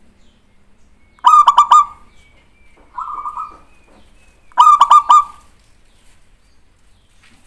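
Zebra dove (perkutut) cooing: two loud phrases of quick stuttering notes, about three seconds apart, with a softer, shorter phrase between them.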